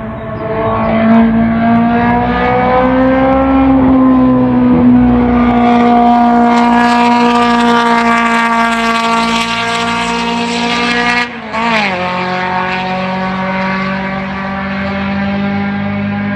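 Race car engine running hard at high revs. Its pitch climbs over the first few seconds, then holds, and about eleven seconds in it drops suddenly before carrying on lower and steadier.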